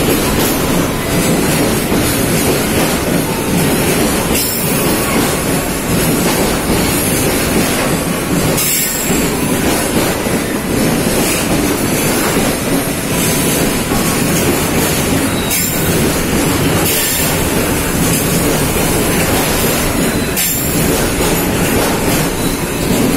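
Container freight train's wagons rolling past close by: a loud, steady noise of steel wheels running on the rails.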